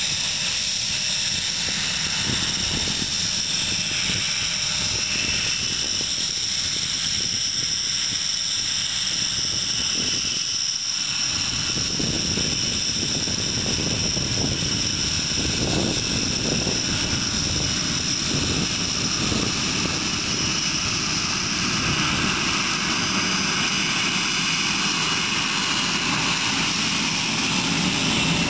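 Aircraft engines running steadily, with a steady high-pitched whine over the engine noise.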